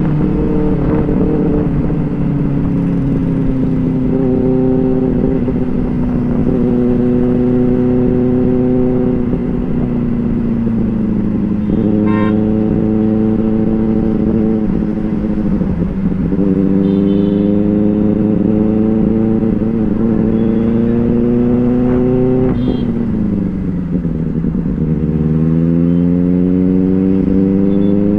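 Benelli 600i motorcycle's inline-four engine running under way. It holds a steady note, sags as the bike eases off, climbs as it accelerates, drops sharply a little after 22 seconds, then climbs again near the end.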